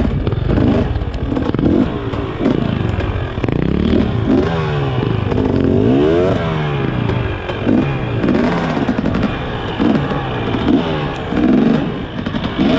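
Dirt bike engine revving up and down again and again in short rises and falls, with some clatter, as the rider works a bike that is stuck in a trail rut.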